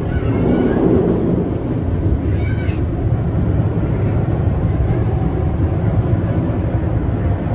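Steady low rumble of a narrow-gauge steam train running along the line. Two short high-pitched sounds come through it near the start and again about two and a half seconds in.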